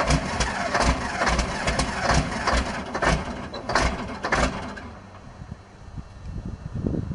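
Large diesel engine running roughly at low speed after a cold start, with heavy, uneven firing beats about two to three a second. The sound cuts off suddenly about five seconds in, leaving a faint low rumble.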